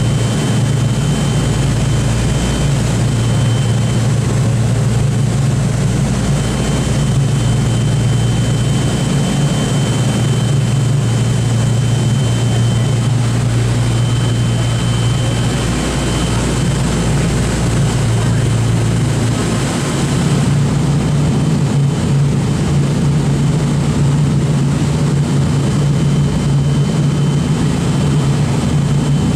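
Boeing B-29 Superfortress's four radial piston engines running with propellers turning, a steady low drone whose note shifts about halfway through and again a few seconds later.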